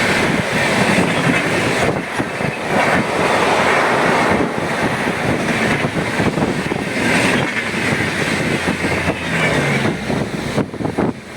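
Moving train running at speed: a loud, steady rush of wheel and track noise with the carriage rattling over the rails.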